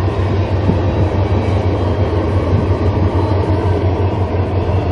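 Two freight trains passing at once: a steady rumble of intermodal container cars rolling by on the rails, with CN diesel locomotives crossing the bridge overhead.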